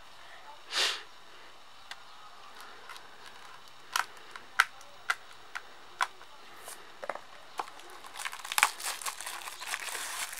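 Plastic shrink wrap being torn and peeled off a Blu-ray case: scattered sharp crinkles and snaps, with a brief rustle about a second in and denser crackling near the end.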